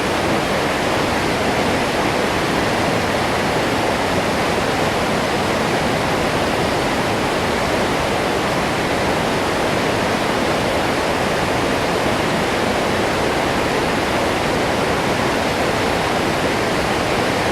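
Waterfall: water falling and crashing steadily into its pool, a loud, unbroken rush.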